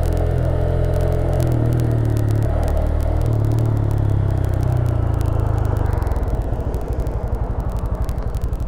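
Honda Grom 125's single-cylinder four-stroke engine running steadily, then dropping to an evenly pulsing idle about six seconds in.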